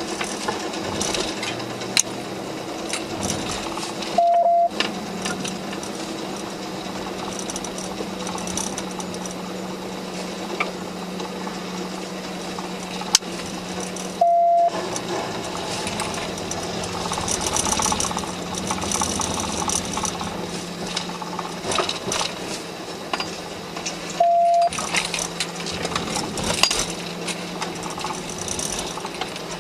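Steady engine and road noise inside a moving patrol car, with scattered clicks and rattles. A short electronic beep sounds three times, ten seconds apart, and all other sound drops out while it plays.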